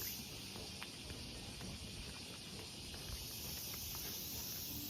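Steady high-pitched chorus of insects in the summer heat, with a few faint ticks.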